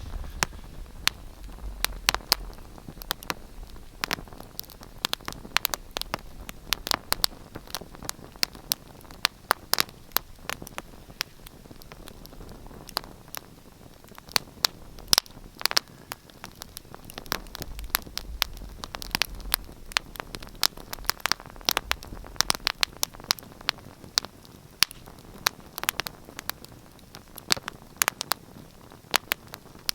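Fireplace fire crackling: a steady run of sharp pops and snaps, several a second, over a soft hiss, with a faint low rumble near the start and again about two-thirds of the way through.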